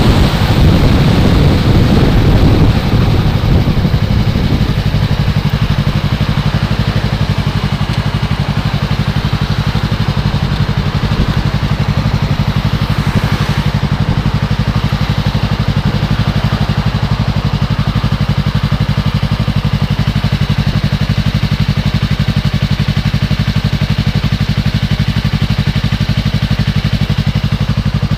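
2015 Yamaha R3's parallel-twin engine: wind rush and engine noise die away over the first few seconds as the bike slows, then the engine idles steadily.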